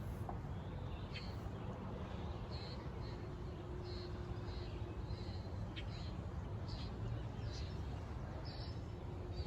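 Short high bird chirps, repeated roughly once a second, over a steady low rumble.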